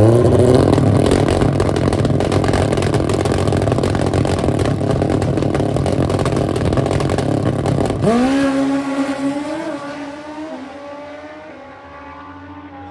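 Drag-racing motorcycle engine at full throttle, revving up sharply at the start and running hard for about eight seconds. At that point the pitch jumps up again, then the sound steadily fades as the bike pulls away.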